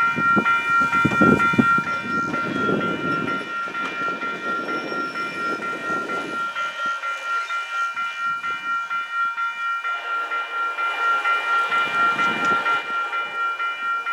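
Railroad grade-crossing bell ringing at an even rate of about two to three strokes a second, with a train's rumbling noise in the first few seconds and a lower, drawn-out tone coming in about ten seconds in.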